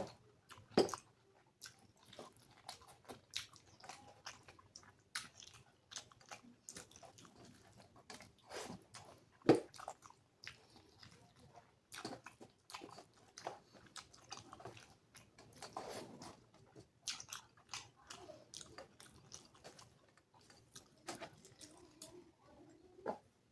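A person chewing mouthfuls of food close to the microphone: a steady run of short, irregular wet smacks and clicks, with a few louder bites, the loudest about nine and a half seconds in.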